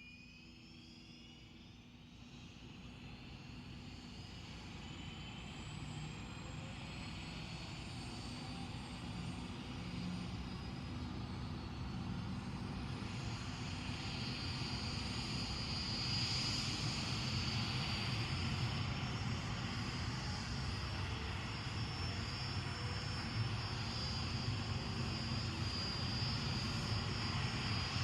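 Bell UH-1 'Huey' helicopter approaching, its rotor beat and turbine whine growing steadily louder, with the whine rising in pitch near the start.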